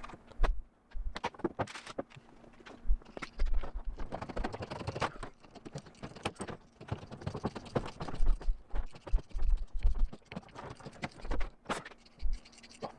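Irregular light clicks, taps and knocks of a cut piece of sheet steel being handled and set down on a work surface, with a few dull thumps.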